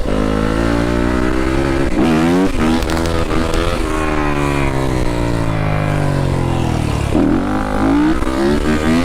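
Dirt bike engine running under riding load, its pitch rising and falling as the throttle is worked. It dips sharply and climbs again about two seconds in and about seven seconds in.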